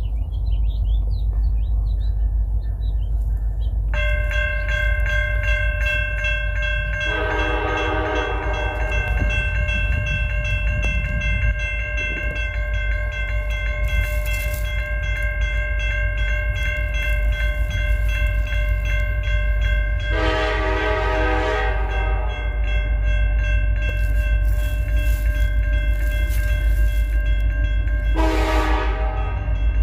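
Grade-crossing warning bell starts ringing about four seconds in, and an approaching freight locomotive sounds its horn three times over it, a blast of about two seconds each, over a low rumble.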